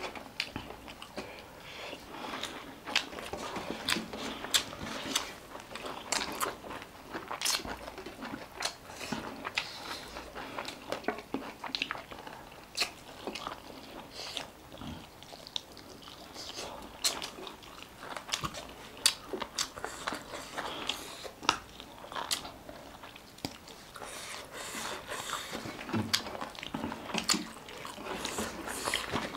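Close-miked eating: food being bitten and chewed, with frequent short crunches and wet mouth clicks that come thicker near the end.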